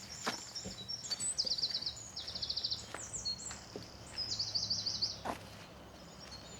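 A songbird singing several high-pitched phrases of rapid trills, with a person's footsteps on a path at a slow walking pace.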